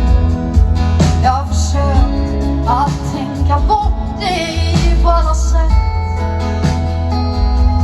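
A woman singing a Swedish pop song live with a band, with a heavy bass line underneath.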